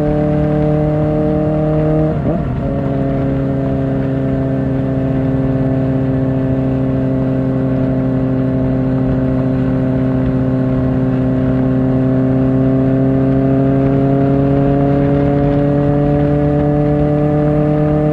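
Kawasaki Ninja ZX-4R's inline-four engine through an Akrapovic exhaust, running steadily while riding. About two seconds in, a quick gear change drops the pitch, which then climbs slowly as the bike gathers speed.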